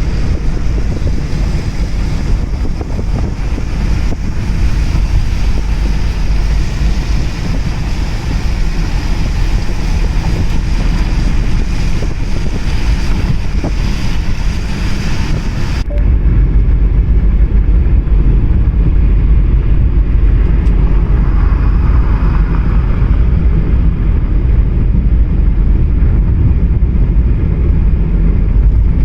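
Car on the move: steady road and wind noise, heaviest in the low end. About halfway the hiss cuts off abruptly, leaving a slightly louder low rumble.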